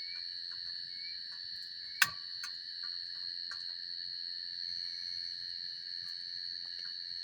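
Crickets chirring steadily in several high, even tones, over a campfire crackling lightly. One sharp pop comes about two seconds in.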